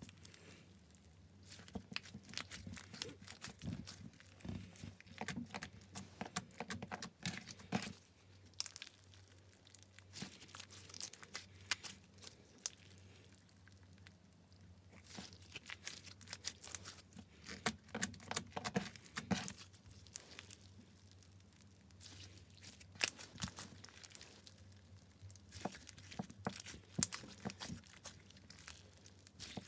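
Hands kneading and stretching slime, giving irregular sticky clicks and crackles that come in uneven clusters with short lulls between them.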